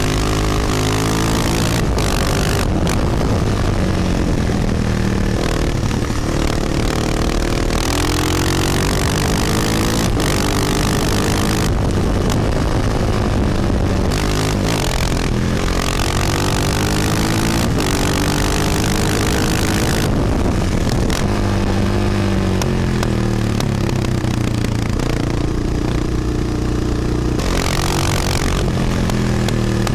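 Honda XR650R's big liquid-cooled single-cylinder four-stroke engine under way, revs climbing and dropping again and again as the rider accelerates and shifts. Wind noise on the microphone rises and falls with it.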